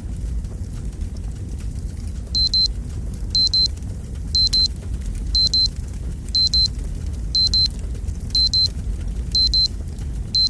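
Fireplace fire burning with a low rumble and light crackles. About two seconds in, a digital alarm clock starts beeping, high double beeps about once a second: the countdown timer has run out.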